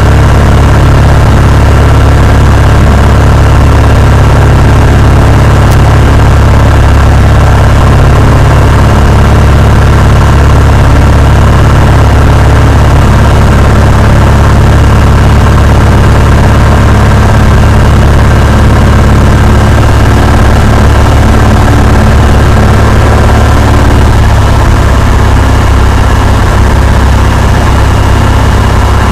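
Cessna 172's piston engine and propeller running steadily in a loud, low, unbroken drone, easing slightly about three quarters of the way through.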